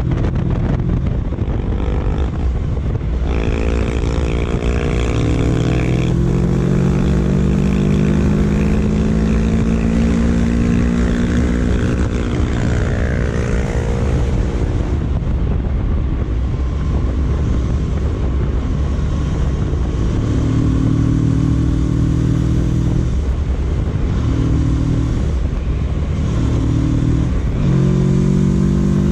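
Kawasaki Versys 650's parallel-twin engine under way, over a steady low rush of wind noise. From about three seconds in, the engine note climbs slowly for some nine seconds as the bike gathers speed. In the second half it comes and goes in short stretches as the throttle is opened and closed.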